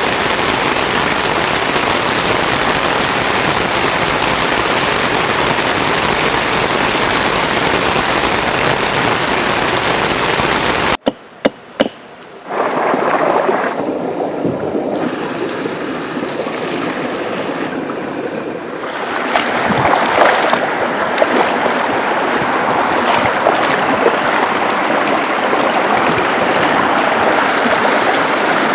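Rushing river water, a dense steady hiss of flowing stream. About a third of the way in it cuts abruptly to a quieter stretch with a few sharp clicks and a thin, steady high whine lasting a few seconds, before the rush of water builds again.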